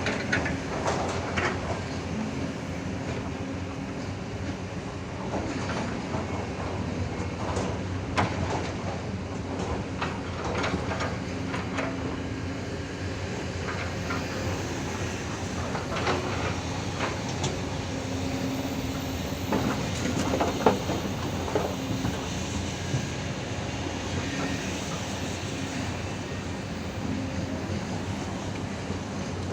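Excavator diesel engine running steadily, with frequent clanks and knocks, some louder than others, as the bucket digs and loads material.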